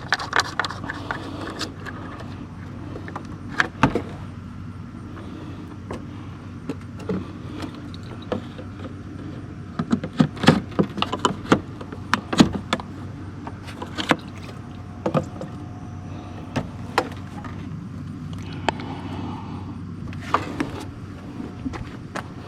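Scattered clicks, clinks and knocks of bolts, fan parts and hand tools being handled while a radiator fan assembly is fitted. They come thickest about ten to twelve seconds in, over a steady low hum.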